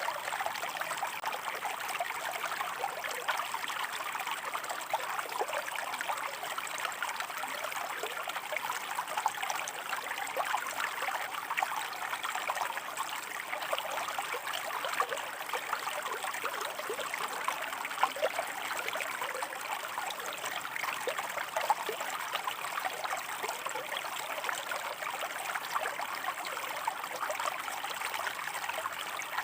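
Stream water running over rocks, a steady rush full of small splashes and gurgles.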